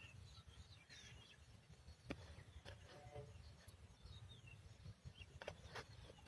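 Near silence, with faint bird chirps scattered through and a few soft clicks, about four of them.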